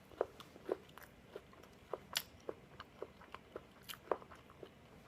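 Close-up chewing of a toasted waffle: short, irregular crunches and mouth clicks, about three a second.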